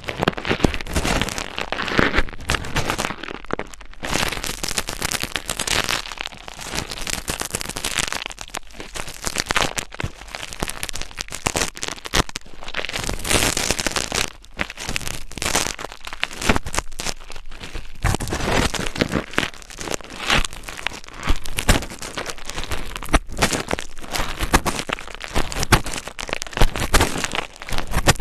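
Close-miked ASMR scratching: a dense, irregular stream of small crackles and rustles right at the microphone, with a couple of brief lulls.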